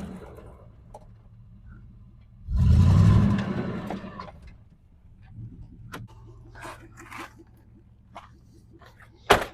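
Lifted pickup's Vortec V8 with custom exhaust revving hard for about a second and a half, a few seconds in, as the truck is driven in four-wheel drive to test its clearance, then settling to a low idle. Scattered clicks follow, with one sharp loud crack near the end.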